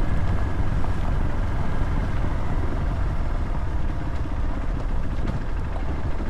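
Motorcycle engine running steadily, with low road and wind noise.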